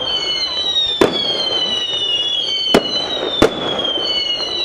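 Fireworks going off: a string of overlapping whistles, each sliding slowly down in pitch, with three sharp bangs about one, two and three-quarter, and three and a half seconds in, over a steady hiss.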